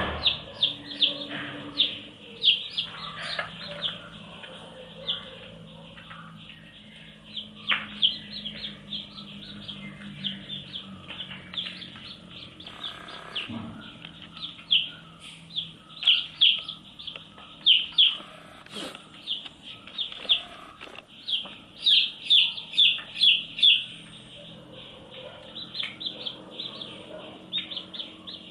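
Baby chicks peeping: many short, high chirps in quick runs, busiest in the second half. A faint steady low hum runs underneath.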